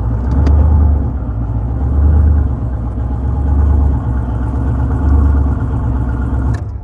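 A car engine idling with a low rumble that swells and fades about every second and a half, then shut off near the end.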